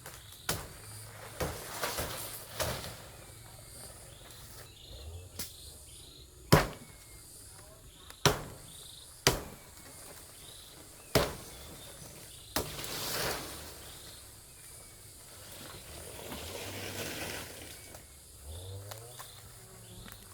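Sharp chopping blows, about ten in all, spaced irregularly a second or two apart, over a steady chorus of insects, with stretches of rustling between the later blows.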